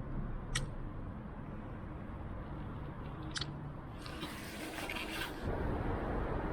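Street background noise: a steady low rumble of city traffic, with a few faint ticks and a hiss lasting about a second starting about four seconds in.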